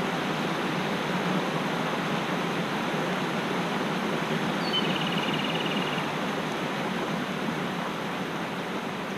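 Mountain stream rushing steadily. About halfway through, a small bird gives a short high note followed by a rapid trill lasting about a second.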